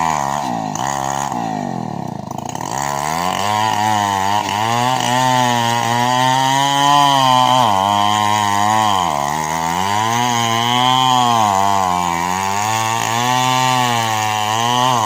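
Small two-stroke chainsaw engine running at high speed, its pitch repeatedly sagging and picking back up, with deep dips about two seconds in and about nine seconds in.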